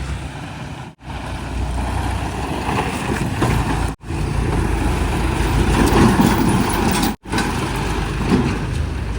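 Heavy diesel vehicle engines running, in short takes broken by sudden brief dropouts about a second, four seconds and seven seconds in.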